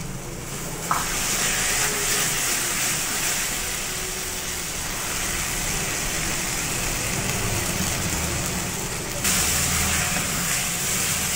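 Apple halwa sizzling in ghee in a steel kadai while it is stirred with a wooden spatula: a steady sizzling hiss that steps louder about nine seconds in.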